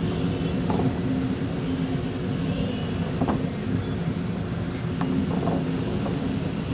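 An engine running steadily, a low droning hum with a few faint knocks and rattles over it.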